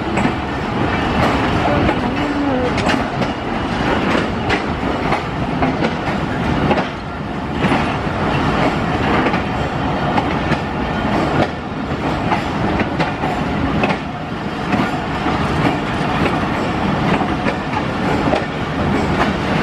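Passenger coaches of a train pulling out of a station, rolling past in a steady rumble with the wheels clicking over rail joints every second or so.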